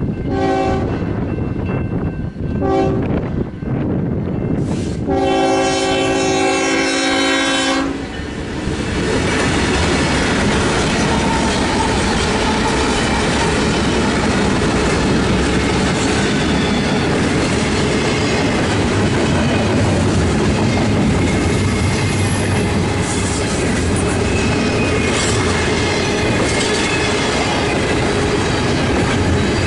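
A BNSF freight train's lead locomotive, a GE ES44DC diesel, sounds its horn for the grade crossing: two short blasts, then one long blast of about three seconds. From about eight seconds in, the locomotives and double-stack intermodal cars pass close by with a steady rumble and wheel clatter, with some wheel squeal.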